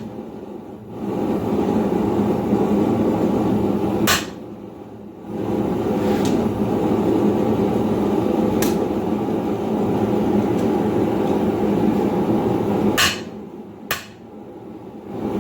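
Blacksmith's hammer striking hot steel on the anvil while drawing out a reverse taper: about five separate blows, several seconds apart, the last two close together. A steady roar runs underneath.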